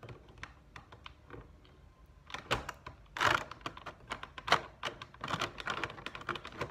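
Toy packaging being handled as an action figure is worked out of it: irregular plastic clicks, taps and crinkles, sparse at first and busier and louder from about halfway through.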